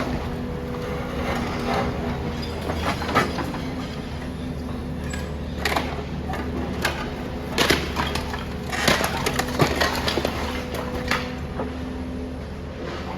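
Building being demolished by heavy machinery: a steady engine hum under irregular cracks, crunches and crashes of breaking building material, busiest in the second half.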